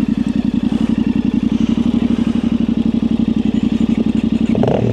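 Yamaha Ténéré 700 parallel-twin engine running at steady, low revs on the trail, its exhaust giving an even, rapid pulsing beat through an aftermarket high exhaust. A short click comes near the end.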